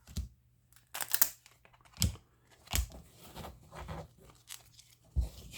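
Baseball trading cards and pack wrappers being handled: a series of short papery rustles, snaps and tearing sounds, about seven in a few seconds.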